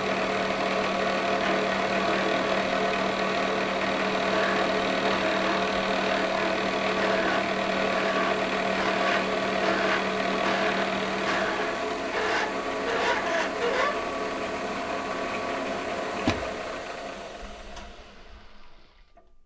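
Manual vertical milling machine running with its end mill cutting along the edge of a workpiece: a steady machine hum with a whine. There is a single knock about 16 seconds in, and the sound fades away near the end.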